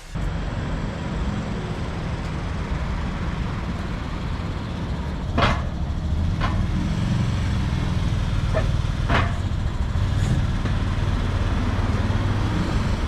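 A motor vehicle's engine running with a steady low rumble, with a few short clicks or knocks about halfway through.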